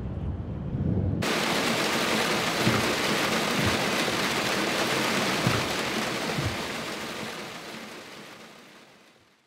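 Heavy rain pouring down: a loud, steady hiss that fades out near the end. It begins about a second in, cutting in over a low rumble.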